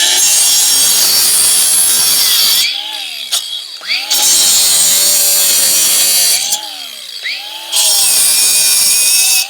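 Power saw, most likely a reciprocating saw, cutting through metal parts on a scrap boat engine in three loud spells, with the motor winding down and back up between cuts.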